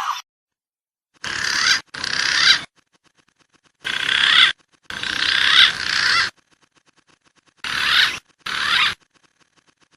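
Recorded bird calls from a pigeon lure-call track: six short calls in three pairs, each about half a second to a second long, with silent gaps between.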